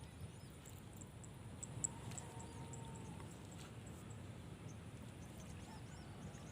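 Quiet outdoor ambience: many short, faint high chirps, as of small birds, over a low steady rumble.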